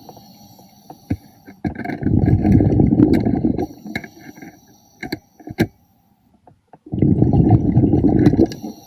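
A diver's exhaled breath bubbling out of the breathing regulator underwater, in two bursts about two seconds long, each breath several seconds apart. Between the breaths there is a faint hiss of inhaling and a few sharp clicks.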